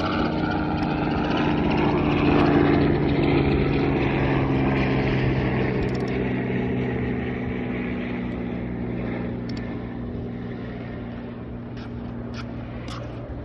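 A passing engine, a steady low hum with several tones, loudest about two and a half seconds in and then slowly fading.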